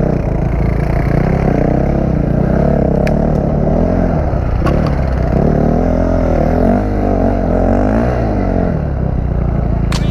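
Dirt bike engine being ridden hard, its pitch rising and falling again and again as the throttle is opened and closed, with a few sharp clicks.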